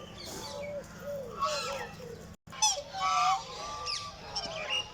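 Several birds calling at once: a run of short arched calls in the first half, then higher calls and quick chirps after the sound cuts out for a moment about halfway through.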